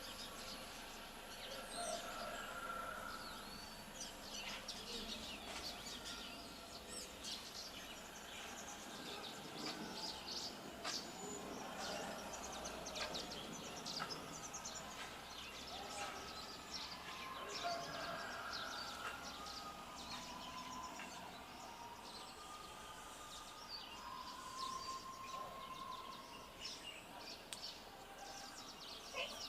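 Birds chirping and twittering all through, many short high calls over a steady outdoor background hiss.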